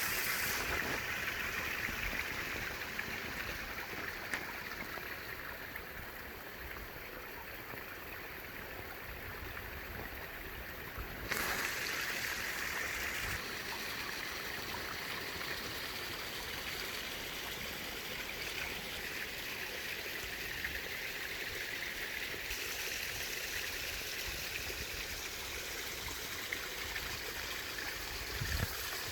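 Flowing water running steadily, like a stream. It rushes a little quieter for a few seconds, then jumps louder about eleven seconds in.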